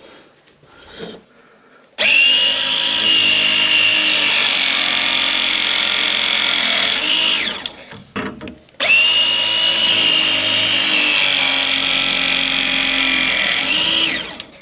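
Power tool motor running twice under load, about five seconds each time, with a short pause between. Its high whine sags slightly through each run and then winds down.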